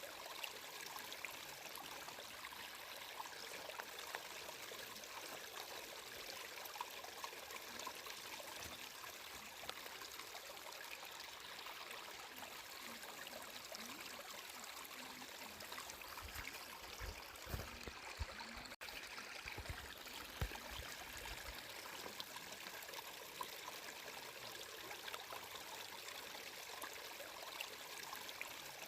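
A stream of water flowing and trickling steadily, with a bright, even rush. A little low rumbling comes in between about 16 and 22 seconds in, and the sound cuts out for an instant near 19 seconds.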